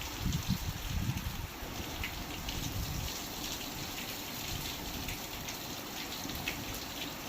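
Rain falling steadily in a storm, an even hiss with scattered individual drops. In the first three seconds or so, gusts of wind buffet the microphone with a low rumble.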